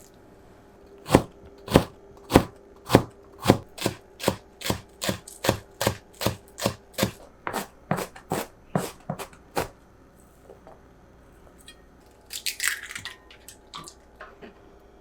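A knife chopping on a cutting board: a long run of even strokes that speed up from about two to about three a second and stop after some ten seconds. A short rustle follows near the end.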